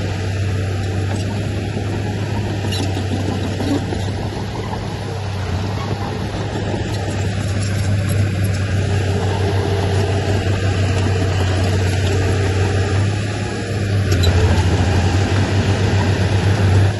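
Heavy diesel engine of earth-moving machinery running with a steady low drone, growing louder over the last few seconds.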